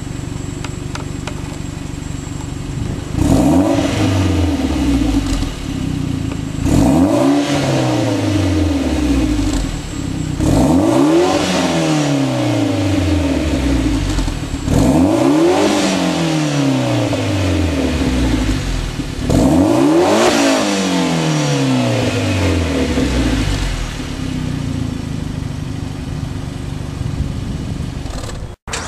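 Mitsubishi Lancer Evolution X's turbocharged 2.0-litre four-cylinder through a 3-inch turbo-back exhaust with the catalytic converter deleted, idling and then revved five times about every four seconds. Each rev climbs quickly and falls back slowly to idle.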